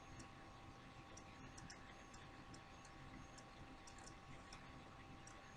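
Near silence: quiet room tone with a faint steady hum and scattered faint, irregular small clicks.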